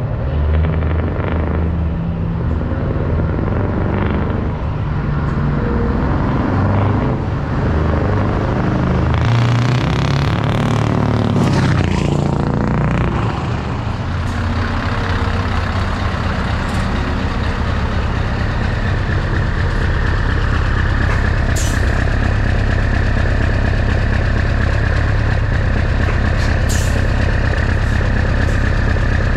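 Scania 164 580 truck's V8 diesel engine running loud, its pitch changing and swelling about ten to twelve seconds in, then settling to a steady idle. A few short sharp hisses come later, typical of truck air-brake releases.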